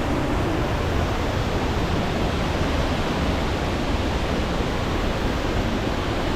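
Steady rushing roar of a waterfall, an even noise with no breaks.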